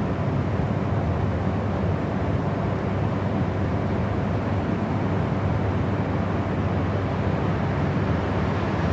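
Steady, unbroken white noise: an even rushing hiss weighted toward the low and middle range, holding the same level throughout.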